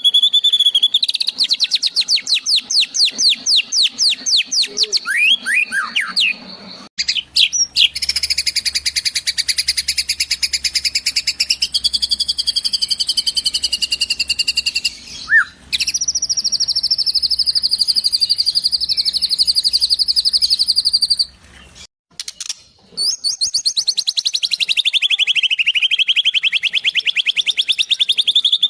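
White-rumped shama singing a song filled with imitations of sparrow and kingfisher calls: long runs of fast, rapidly repeated high trilled notes that sweep up and down in pitch. The song breaks off briefly three times and resumes.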